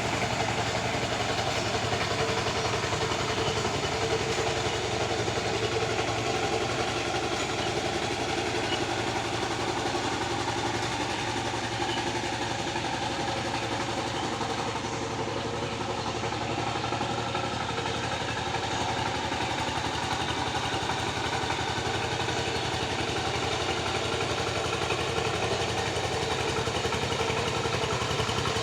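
Tractor engine running steadily at an even speed while working the field.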